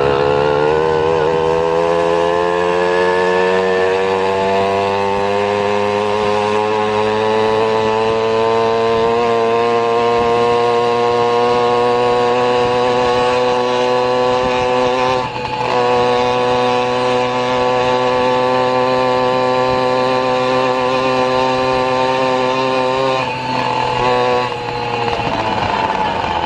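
Vehicle engine running under load, a buzzing drone whose pitch climbs slowly as the vehicle gathers speed. It dips briefly about halfway through, then holds a steady pitch, with another short break near the end.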